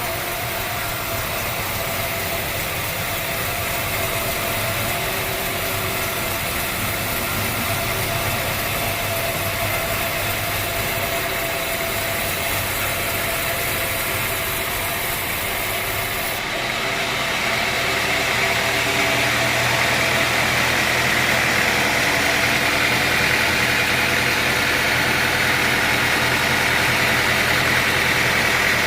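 Sawmill machinery running steadily with a constant hum. About two-thirds of the way through the sound shifts and gets a little louder.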